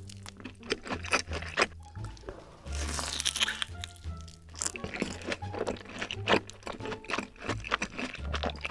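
Crisp crunching of a deep-fried, breaded cheese snack being bitten and chewed: many sharp crackles, with a louder, longer crunch about three seconds in. Background music with a steady bass line plays throughout.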